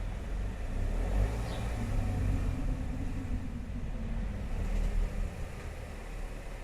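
Steady low rumble that swells about a second and a half in and fades again a few seconds later, over an even background hiss.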